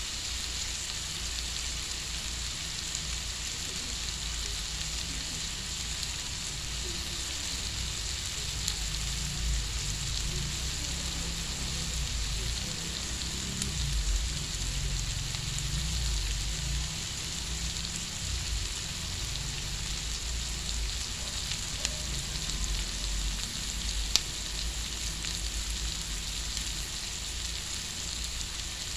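Sausage, chicken, onion and chili strips sizzling steadily in hot oil in a wok, over a low rumble, with a single sharp click about 24 seconds in.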